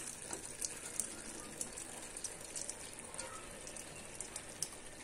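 Faint patter and scattered light clicks of cooked rice being spooned onto the layers in the biryani pot.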